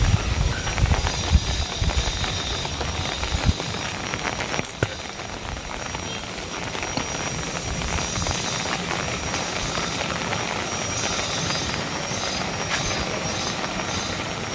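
Heavy rain falling steadily, with a low buffeting rumble over the first few seconds that stops about three and a half seconds in, typical of wind gusting on the microphone.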